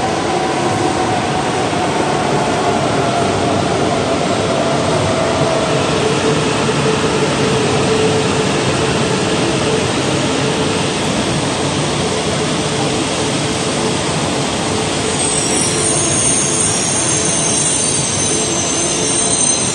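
An E4 series Max double-decker Shinkansen train runs slowly into the platform, giving a steady rumble with a hum that falls in pitch as it slows. From about fifteen seconds in, a high squeal joins it as the train brakes towards its stop.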